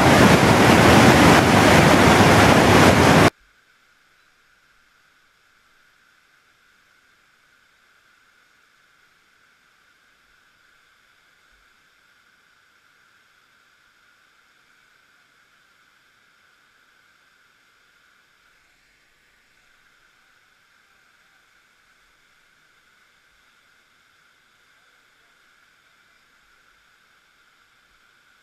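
River whitewater rushing loudly, with wind buffeting the microphone, for about three seconds, then cut off suddenly. After that, near silence with a faint steady hiss.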